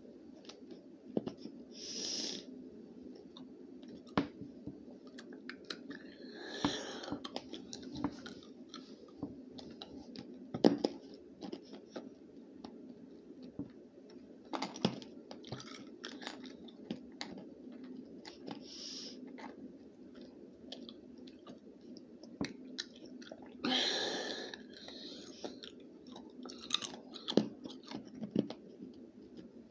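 A person chewing a crunchy snack close to the microphone, with many scattered crunching clicks and a few short rushes of noise, around 2, 7 and 24 seconds in.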